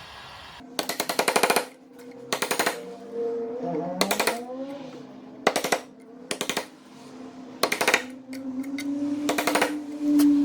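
Repeated short bursts of very fast rattling impacts, about nine in all, each under a second long, with a steady hum between them.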